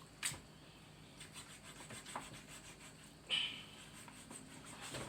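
Kitchen knife sawing through a raw whole chicken, the blade rubbing and scraping in quick short strokes. A sharp click comes about a quarter second in, and a louder snap a little past three seconds.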